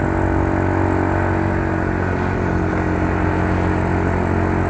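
Yamaha Mio Soul scooter's single-cylinder four-stroke engine and belt drive running steadily while riding, with road and wind noise. It is running quietly, with no drone from the wheels.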